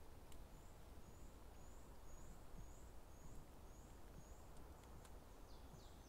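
A faint series of thin, high-pitched bird notes about twice a second, typical of a small songbird, then a few quick falling notes near the end, over a low steady background rumble.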